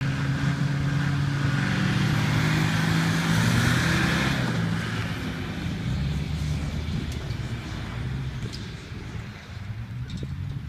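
Land Rover Defender engine pulling away under throttle, its pitch shifting in the first few seconds, then fading steadily as the vehicle drives off into the distance.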